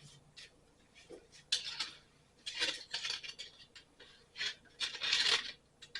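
Light metal clinks and scrapes, a handful of short bursts, from handling metal against the engine while its piston bore is measured.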